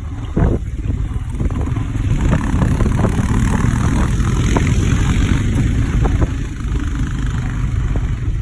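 Royal Enfield motorcycle engine running while riding, with wind buffeting the microphone; it gets a little louder about two seconds in.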